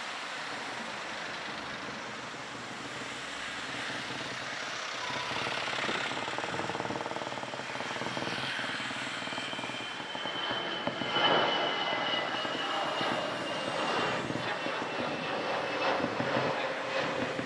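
Jet airliner engines passing with a steady rushing roar and a high whine that slowly falls in pitch.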